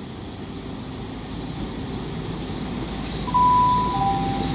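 Station public-address chime: two clear tones, the second lower, about three seconds in, the signal that an announcement is coming. Under it is the steady rumble of a train.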